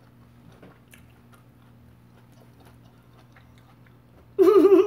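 Faint, irregular crunching as a raw-cabbage-leaf taco is chewed. About four and a half seconds in, a loud, wavering hummed 'mmm' of enjoyment.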